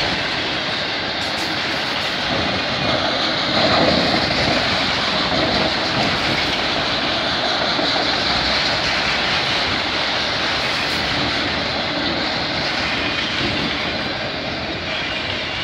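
Freight train of autorack cars rolling steadily past at close range: a continuous, even rumble of steel wheels on the rails.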